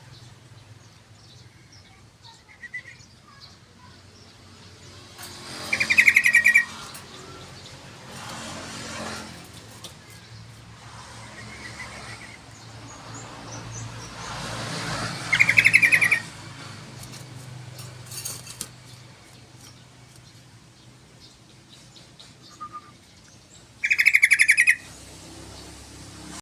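Yellow-vented bulbul (trucukan) singing three short, rapid rattling phrases about nine seconds apart, each about a second long. Between them there is a steady low hum with slow swells of background noise.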